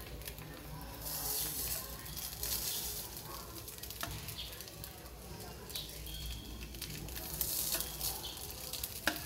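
Slices of radish cake sizzling in a hot pan with a little oil, the hiss swelling as more slices go in, with a few sharp clicks of metal tongs.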